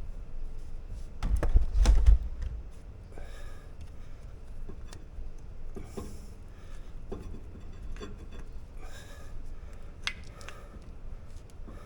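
Light metallic clicks and taps of brake pads and slider pins being handled and pushed into a rear disc-brake caliper, with a heavier bump and knocking about one and a half to two seconds in.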